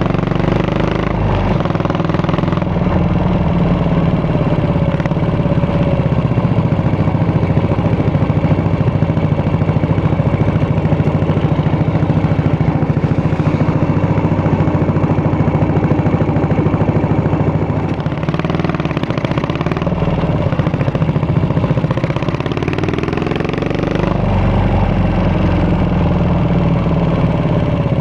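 Yamaha SR400 single-cylinder engine running while riding, its exhaust note steady for long stretches and rising and falling in pitch with the throttle near the start and twice in the last third.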